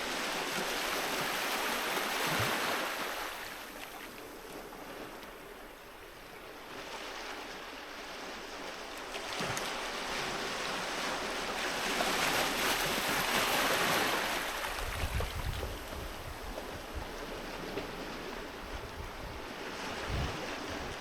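Sea waves breaking and washing up a beach, the surf swelling twice, once early and again about twelve seconds in. In the second half, low wind buffeting on the microphone rumbles under the wash.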